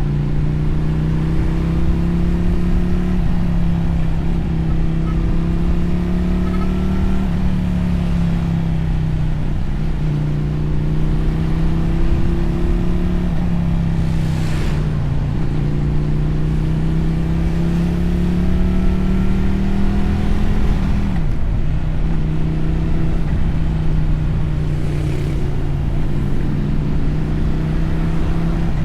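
Motorcycle engine pulling through the gears: its pitch climbs slowly, then drops sharply at each upshift, about four times. A steady low rumble runs underneath, and two short hissing swells come about halfway through and near the end.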